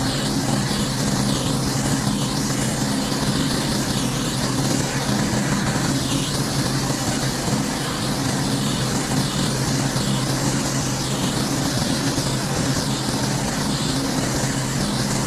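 A pressure washer's engine runs steadily while the high-pressure water spray hisses against a surface.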